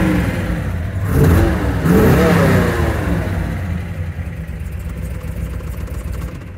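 1970 Chevelle SS's 396 big-block V8 revved in quick throttle blips, then settling back to a steady idle. The engine sound begins to die away right at the end as it is switched off.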